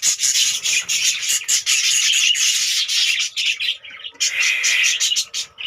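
Many budgerigars chattering and squawking at once, a dense run of quick overlapping chirps that thins out briefly about four seconds in.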